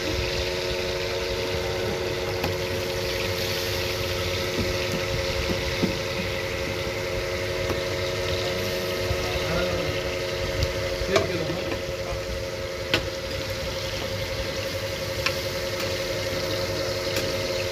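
Chapli kababs sizzling in a large flat pan of hot oil, a steady frying hiss, over a steady mechanical hum like an idling engine. A few sharp metallic clicks, from the tongs on the pan, come about eleven, thirteen and fifteen seconds in.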